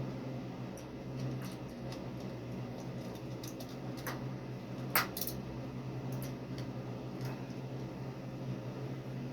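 A few light clicks and taps, with one sharper click about five seconds in, over a steady low hum.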